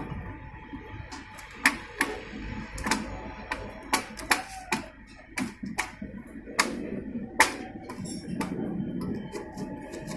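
Irregular sharp metal clicks and taps, about a dozen, as tools and engine parts are handled and set down during assembly of a Santro Xing engine.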